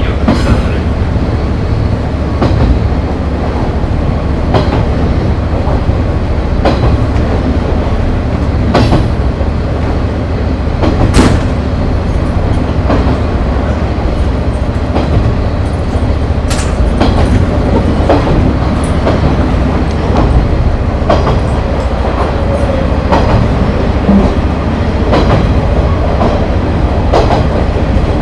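JNR KiHa 30 diesel railcar running along the line, its diesel engine and wheels making a steady rumble. Sharp clacks come every second or two as the wheels pass over rail joints.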